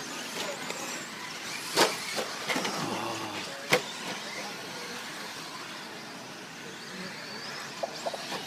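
RC stadium trucks racing on a dirt track: a steady hiss of motors and tyres with a faint high whine, and two sharp knocks.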